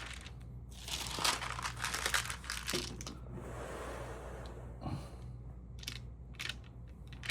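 Stamp album pages being handled and turned: crinkling rustles, a smoother sliding sweep around the middle and a few light clicks near the end, over a low steady hum.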